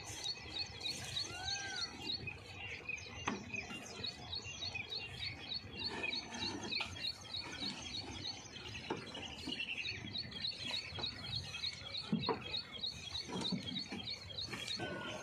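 Small birds chirping: a fast, even run of short high notes, about five a second, keeps repeating. A few separate knocks sound about three, six, nine and twelve seconds in.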